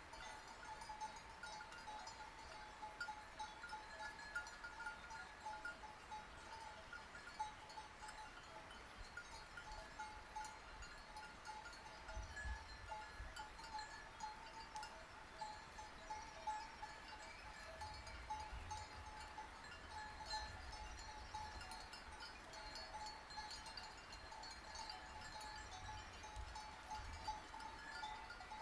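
Sheep bells on a grazing flock, many small bells clanking irregularly and without a break. A low rumble comes and goes now and then.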